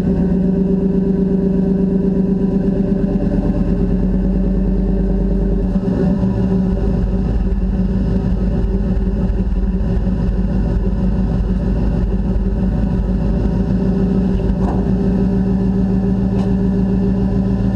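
1991 Chevy full-size pickup's engine idling steadily in the first minutes after a cold start in 10-degree cold; the idle note shifts slightly about six seconds in.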